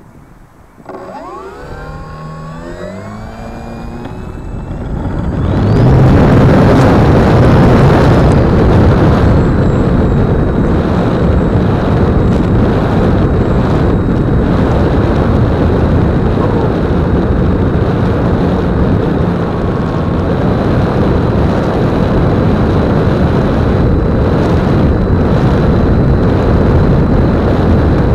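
The brushless electric motor and propeller of an E-flite Apprentice 15e spinning up: a whine that rises in pitch over a few seconds. It then gives way to a loud, steady rush of motor, propeller and wind noise at full throttle, heard through the plane's on-board keychain camera.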